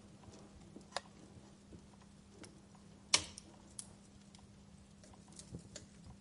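Wood fire crackling in a fireplace: scattered sharp pops and snaps at uneven intervals, with one loud pop about three seconds in, over a faint steady low hum.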